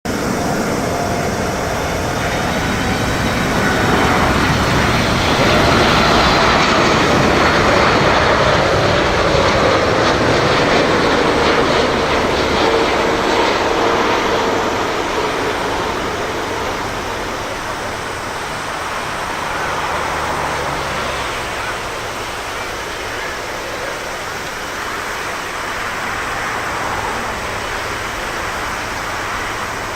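Boeing 747-8 freighter's four GEnx turbofan engines passing by on its landing approach, the engine whine falling in pitch as it goes past. It is loudest about six to twelve seconds in, then fades to a steady rumble.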